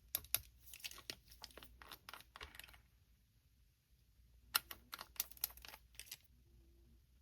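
Plastic packaging crinkling and small items clicking as they are handled, in two bursts of rapid crackles with a short pause between them.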